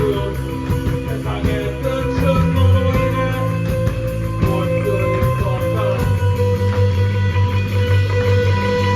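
A live rock band playing loud, with distorted electric guitars over bass and drums. About six seconds in the drum hits thin out and the guitars hold a ringing, sustained chord.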